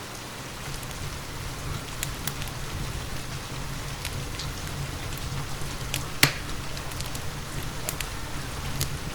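Steady rain hissing, with a wood fire crackling in a fireplace: scattered sharp pops, the loudest about six seconds in.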